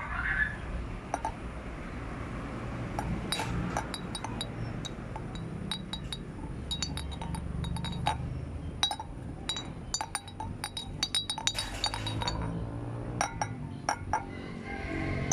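Scattered light clinks of small hard objects, irregular and coming thickest in the second half, over a low steady hum.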